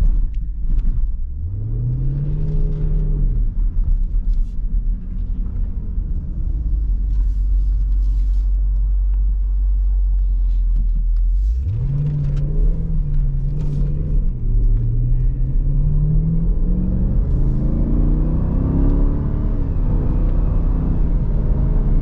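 SRT Jeep's engine heard from inside the cabin: a brief rev that rises and falls, then a low steady rumble. About halfway through it accelerates, and the pitch climbs in steps and drops back as it pulls through the gears.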